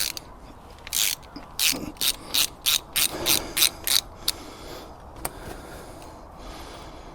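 Ratchet wrench clicking in a quick, uneven run of about ten clicks as a bolt is worked loose, then one last click about five seconds in.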